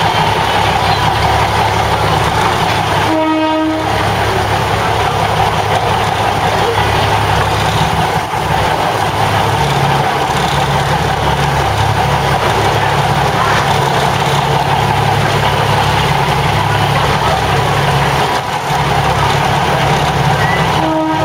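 Diesel railcar running slowly, heard from its open window, with a steady engine hum. A short horn blast sounds about three seconds in, and another right at the end.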